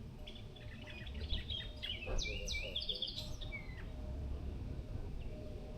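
A songbird singing one rapid phrase of high chirps and trills, about three seconds long, ending in a short falling note, over a steady low rumble.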